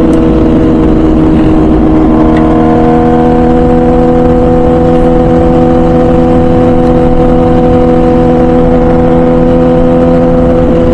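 MV Agusta Brutale 1000RR Nurburgring's 998cc inline-four, breathing through a full titanium Arrow exhaust, running at a steady engine speed while the bike cruises, with wind rush underneath.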